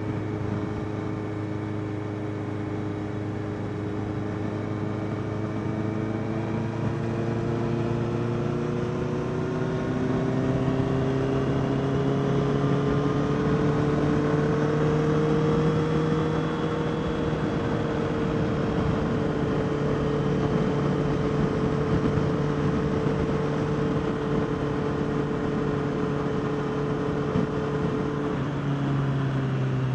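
Honda CBR650R's inline-four engine running at steady cruising throttle while riding. Its pitch climbs gradually for about ten seconds, then holds steady, with a small change near the end.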